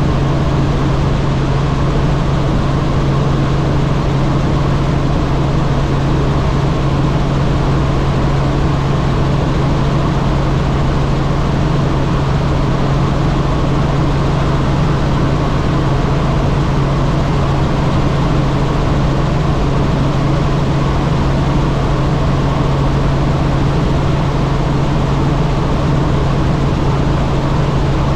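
Helicopter in steady flight: an even, unbroken drone with a strong low hum.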